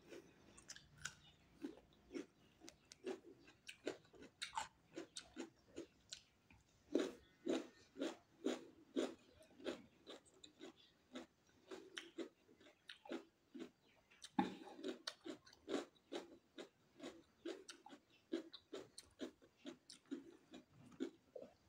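Close-miked chewing of raw cucumber: a steady run of crisp, wet crunches about two a second, with one louder crunch about fourteen seconds in.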